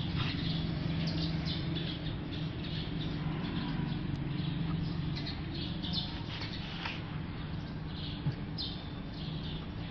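Small birds chirping over and over, with a steady low hum underneath.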